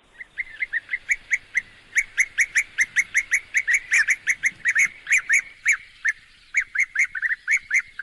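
Bee-eaters giving loud, incessant courtship calls: short chirping calls repeated several times a second, with a brief lull a little past the middle.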